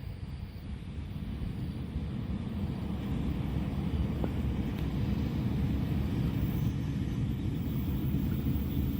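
Low rumble of an approaching train, growing steadily louder over the first several seconds and then holding.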